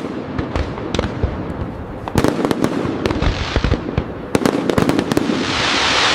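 Fireworks display with many sharp bangs and a dense run of crackling. A rushing hiss builds near the end.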